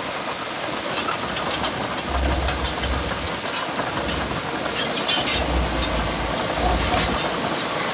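Heavy earthmoving machinery working: a steady mechanical din with scattered sharp metallic clanks and clicks, like a crawler bulldozer's steel tracks, and low rumbling gusts of wind on the microphone coming and going.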